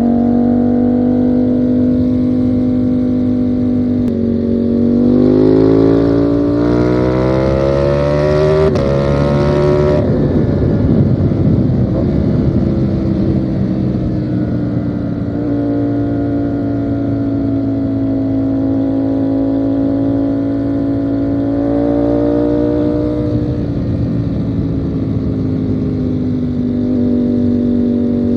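Ducati Panigale V4 motorcycle's V4 engine under way: its pitch climbs hard for about six seconds as the bike accelerates, then drops away with a rough, crackly stretch as the throttle closes. It then settles into a steady cruising note, with one brief rise and fall about two-thirds of the way in.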